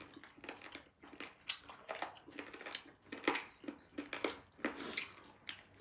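Close-miked eating sounds of two people chewing chicken and pork: an irregular run of short, wet mouth clicks and lip smacks, several a second.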